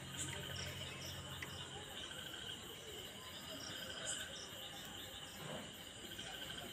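Insects, crickets by the sound of it, chirring steadily at a high pitch. A low hum underneath stops about two seconds in.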